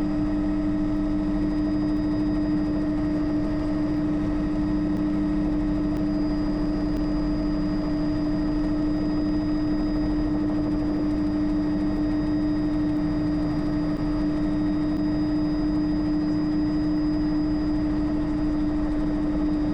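Steady cabin drone of a Bell JetRanger helicopter in a hover: an even hum with one strong constant tone and fainter higher whines over a low rumble, unchanging throughout.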